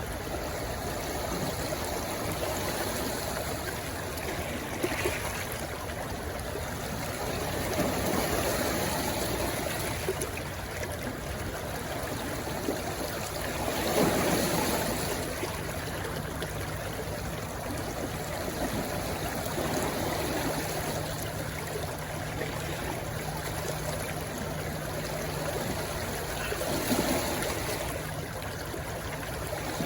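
Stream water rushing and gurgling steadily, swelling louder about halfway through and again near the end. A faint steady low hum comes in just after the middle.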